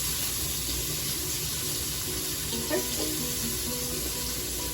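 Bacon and garlic sizzling steadily in a cooking pot, with a small knock about two and a half seconds in.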